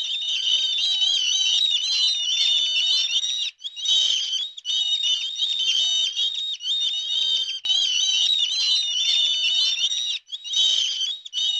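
Many small birds chirping at once in a dense, continuous twitter, with a few brief breaks.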